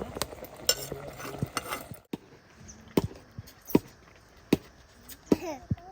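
A series of sharp, separate knocks, roughly one a second, with a short pause near the middle.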